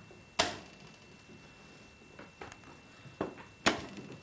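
A few sharp knocks on a hard surface: one about half a second in, two faint taps around two seconds, then two louder knocks in the last second.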